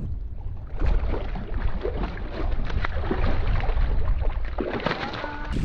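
Wind buffeting the microphone on a fishing kayak, with a steady low rumble and a busy run of small knocks and splashes starting about a second in.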